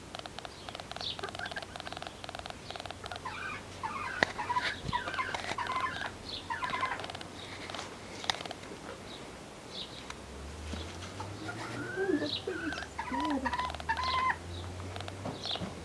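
Birds chirping and calling on and off in short notes and little glides, with a low steady hum joining in over the second half.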